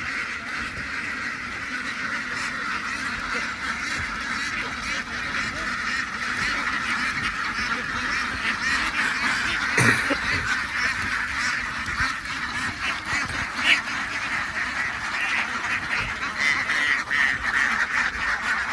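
A large flock of ducks calling all at once, a dense, continuous quacking din. A brief sharp knock stands out about ten seconds in, and another near the end.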